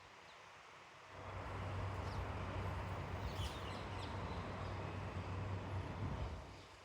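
A passing vehicle: a low engine hum and road noise swell about a second in and fade away near the end. A few faint bird chirps sound over it in the middle.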